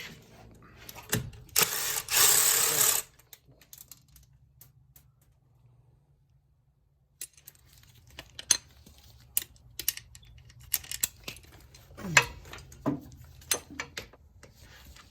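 Metal hand tools clicking and clinking on an engine during teardown, with a loud harsh rasping noise lasting about a second and a half near the start, then a quiet stretch and a run of irregular clicks and knocks.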